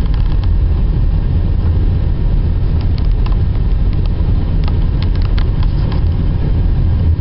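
Car on the road: a steady low rumble of engine and tyres, with a few light clicks scattered through it.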